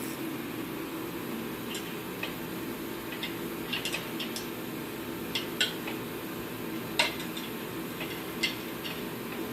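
Small metal clicks and clinks of parts and tools being handled during work on a kerosene torpedo heater, scattered and irregular, with the sharpest knock about seven seconds in. A steady low hum runs underneath.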